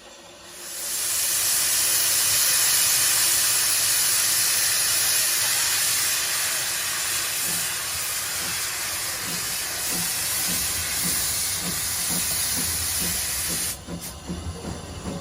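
Steam locomotive letting off steam: a loud, steady hiss that builds up about a second in and cuts off suddenly near the end.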